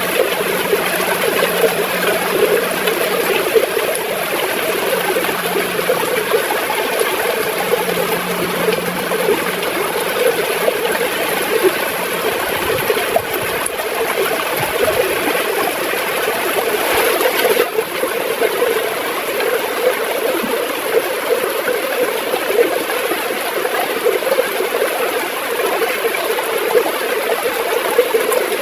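River water flowing with a steady gurgle.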